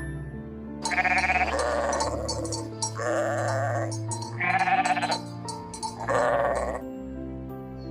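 Four wavering bleats from a farm animal, about a second in, at three, at four and a half and at six seconds, over background music of sustained notes.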